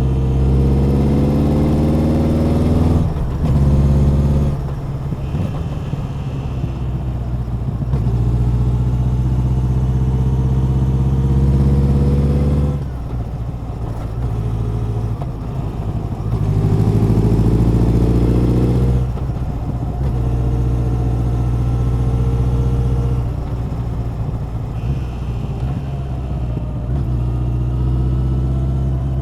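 Honda CB1100's air-cooled inline-four engine and exhaust under way: the note climbs in pitch as it pulls, then breaks off at each gear change or lift of the throttle, a few times over, before rising again near the end.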